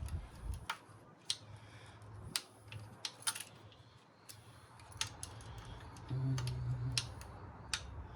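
Scattered light clicks and taps of small metal parts and hand tools being handled while a radial arm saw is dismantled, with a short low hum about six seconds in.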